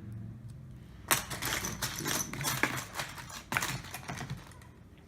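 A thin pry tool clicking and scraping against a Samsung Galaxy Tab 3's internals as it prises up the battery connector. A quick run of sharp clicks starts about a second in, with one loud snap near the start and another late on, then dies away.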